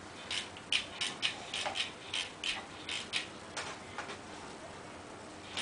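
Light plastic clicks from a toy race car set, roughly two to three a second, stopping about four seconds in.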